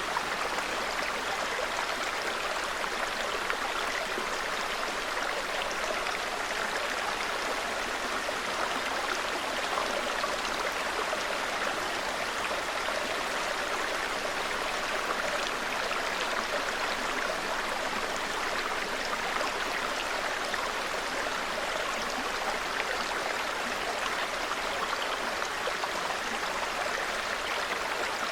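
Small mountain brook babbling steadily, an even, unbroken rush of flowing water.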